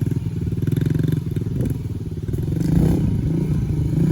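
Pit bike engine running under throttle as the bike rides over a short set of whoops; the revs dip about halfway through and then climb again.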